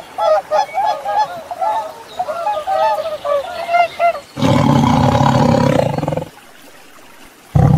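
A flock of swans and geese on the water, honking in many short, overlapping calls. About four and a half seconds in, a tiger roars for about two seconds, and a second roar begins at the very end.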